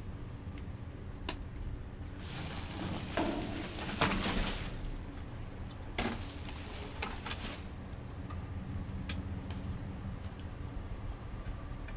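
Rustling and crinkling in three spells, with a few light clicks and clinks, like things being handled and sorted, over a steady low hum.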